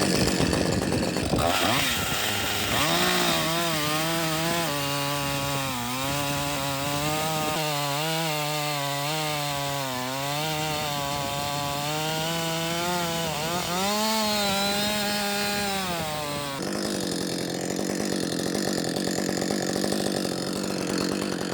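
Gas chainsaw with an Oregon EXL full-chisel chain running at full throttle through hardwood on a test cut, its engine pitch wavering up and down as the load changes. About 16 seconds in the sound changes: it turns rougher and a little lower and stays steady.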